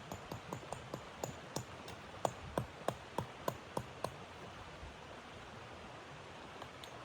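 Steady rushing noise with a run of short, evenly spaced clicks or crunches, about three a second, that stops about four seconds in and returns faintly near the end.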